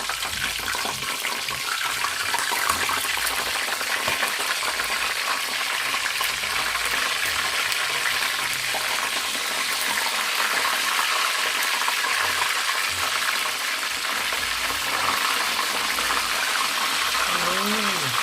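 Chicken pieces frying in hot cooking oil in a pan: a steady sizzle with crackling pops throughout, the chicken nearly cooked.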